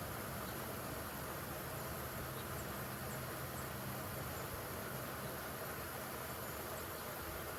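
Steady hiss of water running from a garden hose into a backyard swimming pool as it fills, with a few faint high chirps over it.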